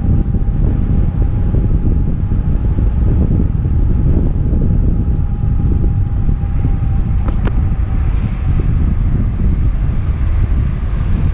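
Wind buffeting a helmet-mounted action camera's microphone while cycling downhill: a loud, steady rumble. A faint steady tone fades out about eight seconds in, and a single sharp click comes about seven and a half seconds in.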